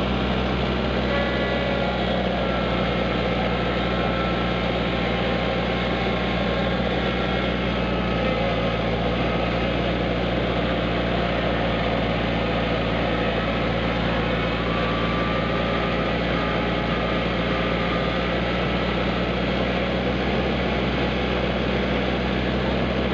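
Kubota tractor engine running steadily.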